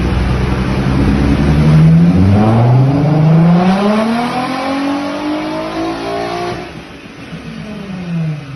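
Volkswagen Jetta's swapped-in Passat R36 3.6-litre VR6 engine accelerating hard, its pitch climbing steadily for about five seconds, then the sound drops away suddenly and falls in pitch near the end.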